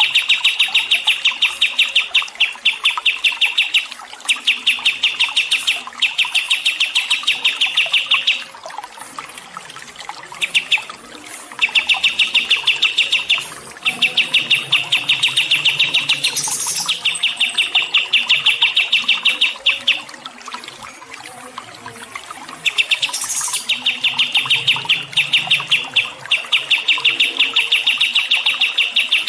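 A songbird chirping in fast runs of repeated notes, each run lasting a few seconds with short pauses between them, and a few brief higher calls in between.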